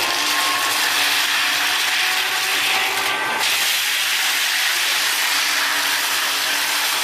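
Heavy forestry machine working through wood: a steady, harsh rushing noise without a break.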